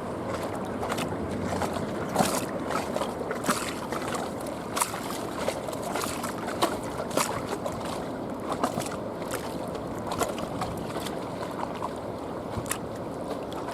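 Small waves lapping and slapping against the waterside in irregular splashes, over a steady low rumble.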